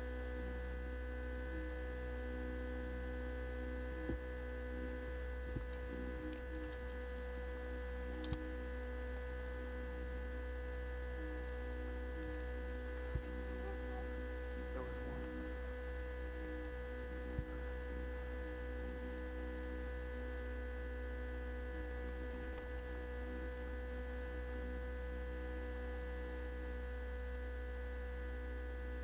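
Steady electrical hum made of several constant tones, with a few sharp clicks at scattered moments: about 4, 5.5, 8, 13 and 17 seconds in.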